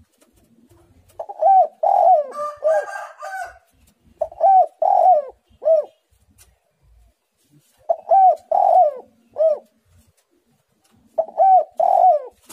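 Spotted dove cooing in repeated phrases of about three notes each, four phrases a few seconds apart, the last cut short at the end. A higher-pitched, busier sound overlaps the first phrase.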